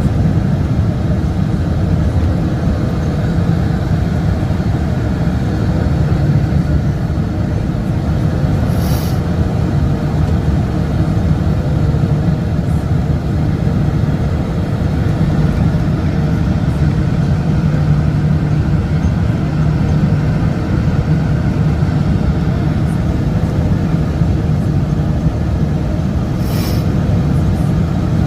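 Steady, loud low rumble inside the passenger cabin of a Qantas Boeing 747 during its descent, made by its Rolls-Royce RB211 engines and the air rushing past the fuselage. Two brief high hisses come about a third of the way in and near the end.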